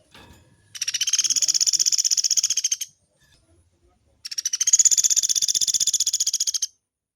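Pelatuk beras woodpecker giving two long rolling calls, each a rapid, even, high-pitched rattle lasting about two seconds, with a short pause between them.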